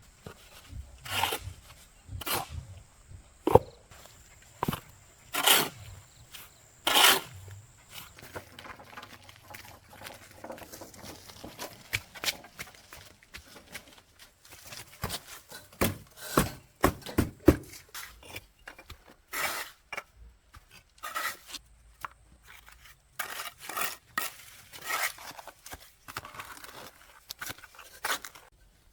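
A run of irregular knocks and scraping or rustling strokes from hands-on work, coming singly or in quick clusters every second or two.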